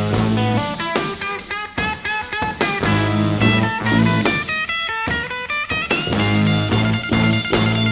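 Live rock band playing an instrumental passage between verses: electric guitar and keyboard chords over bass and a drum kit hitting a steady beat.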